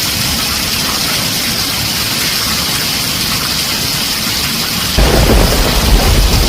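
Heavy rain on a tin roof, a steady dense hiss of drops, with a deep rumble of thunder breaking in suddenly about five seconds in.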